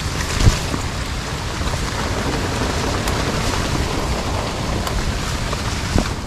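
Steady rain falling, an even hiss, with a soft low thump about half a second in and another near the end.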